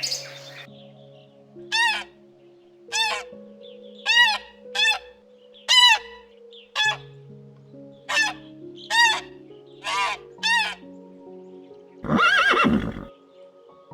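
A bird honking in about ten short, quavering calls, over soft music with held notes. Near the end a horse whinnies once, louder and longer.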